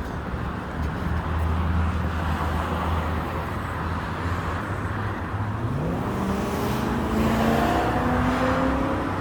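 Road traffic: a steady low hum of engines and tyre noise, then a car accelerates past, its engine note rising from about five and a half seconds in.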